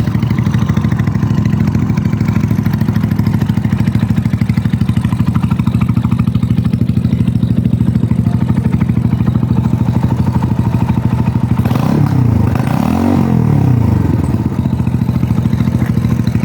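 Mutt Akita 250 motorcycle engine idling steadily with a pulsing beat. About twelve seconds in, the throttle is blipped twice in quick succession, the pitch rising and falling each time, before it settles back to idle.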